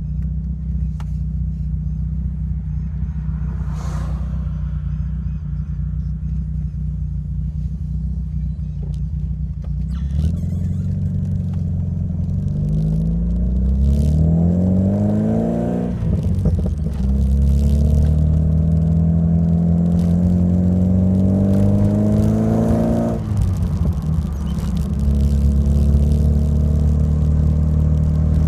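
1986 Alfa Romeo Alfasud Sprint QV's 1.5-litre boxer flat-four, fitted with a stainless steel exhaust, running steadily at low revs. About ten seconds in the revs climb, drop sharply, climb again more slowly and drop once more near the end.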